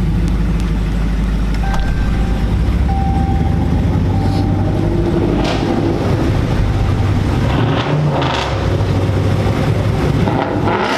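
A car's engine running steadily with a deep, even drone.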